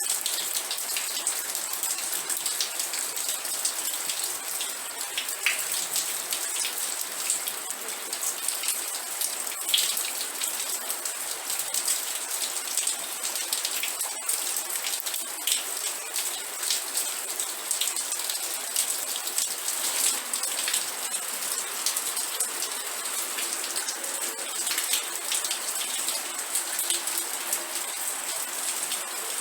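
Steady rain falling, a constant hiss with many close individual drops pattering on a surface.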